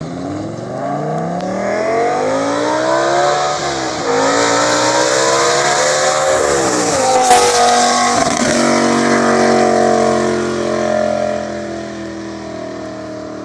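BMW E60 M5's V10, with catless headers and a Corsa exhaust, accelerating hard: its pitch climbs, drops at a gear change about four seconds in and climbs again. A sharp crack comes about seven seconds in, then the engine holds a steady pitch and slowly fades.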